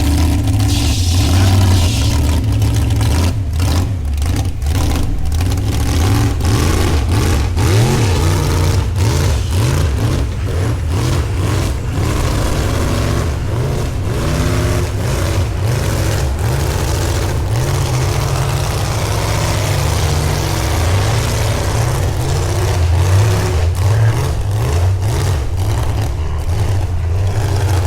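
An engine running loudly with a deep, uneven low rumble, with scattered clicks through the first half.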